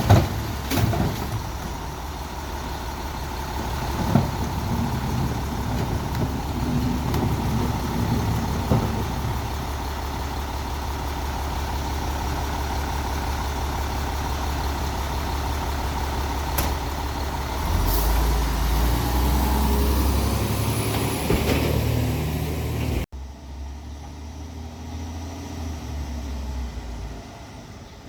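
Peterbilt 320 garbage truck's diesel engine running steadily, with a few sharp clunks from the Labrie Expert 2000 side-loader arm handling a cart. The engine gets louder and deeper about eighteen seconds in. After an abrupt cut a few seconds before the end, a fainter truck engine runs on.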